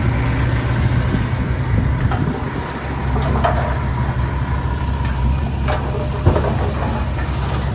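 Komatsu D31P bulldozer's diesel engine running steadily with a low drone, with a couple of short knocks about two-thirds of the way through.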